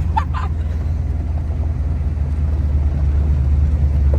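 Steady low engine rumble of a running truck, with a couple of brief higher chirps right at the start.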